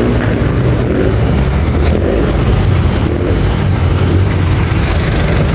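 A road vehicle running steadily, a constant low engine hum with road and traffic noise.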